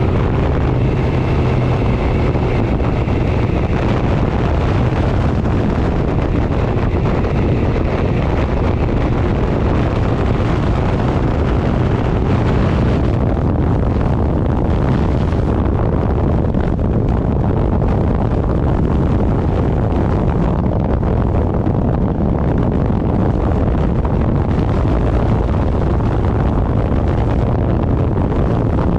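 Heavy wind noise rushing over the microphone at riding speed, with a vehicle's engine running steadily underneath. A few faint tones fade out about four seconds in.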